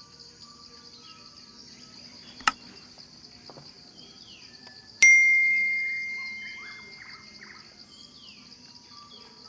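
A steady high-pitched insect chorus with short, falling bird chirps. There is a sharp click about a quarter of the way in, and about halfway a single bright chime-like ring that fades out over about two seconds.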